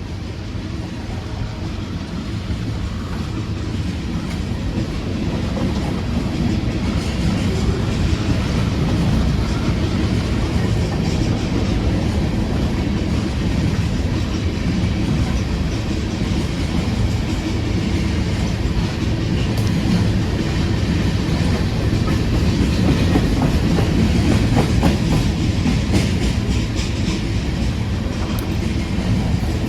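A train rolling past: a steady, loud rumble of railcars with wheels clicking over the rail joints, building over the first several seconds.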